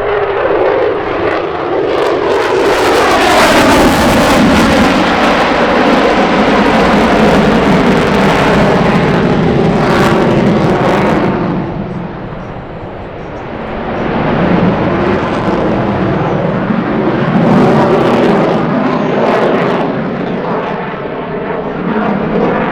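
Aircraft engines flying low past, loud, with the pitch sliding as they go by; the sound eases about twelve seconds in, then builds again with a second pass.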